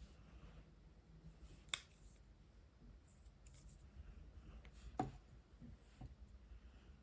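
Two sharp clicks about three seconds apart, with a weaker tap near the end and faint soft scratching in between, from water-based markers being handled while colouring.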